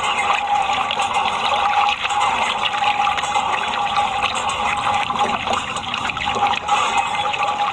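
Continuous rushing, splashing water with a steady high hum running underneath it.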